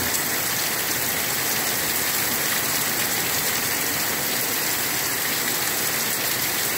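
Heavy rain pouring down steadily, an even, dense hiss with no letup.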